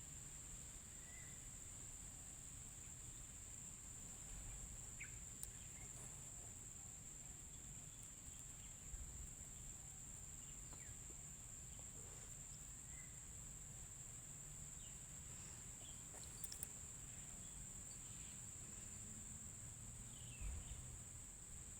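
Faint outdoor ambience: a steady high-pitched insect drone with scattered faint, short bird chirps.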